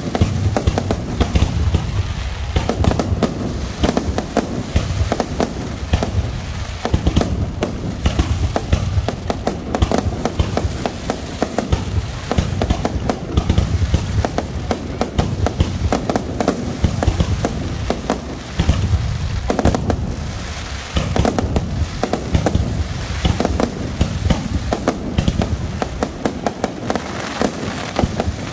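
Aerial fireworks display: a continuous, rapid barrage of shell launches and bursts with crackling, the bangs following one another with barely a pause.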